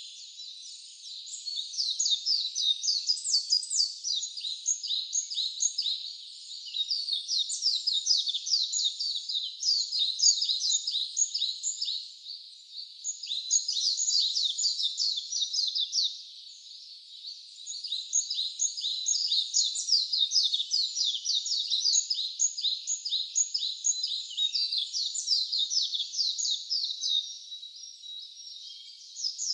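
Wild songbirds chirping in a dense, continuous run of rapid high notes, with brief lulls about twelve and seventeen seconds in.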